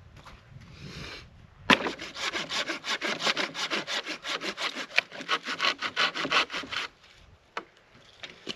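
A hand saw cutting wood with quick, even back-and-forth strokes. It runs for about five seconds, then stops.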